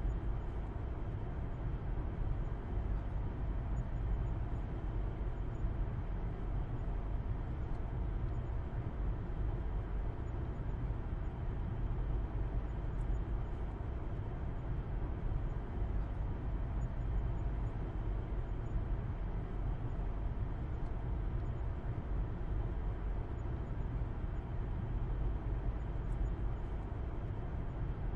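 Car driving at a steady speed, heard from inside the cabin: a steady low rumble of engine hum and road noise that does not change.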